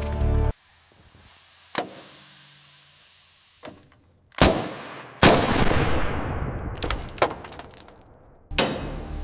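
A few sharp impacts, the loudest followed by a hissing noise that fades over about two seconds, with music cutting out about half a second in and coming back near the end.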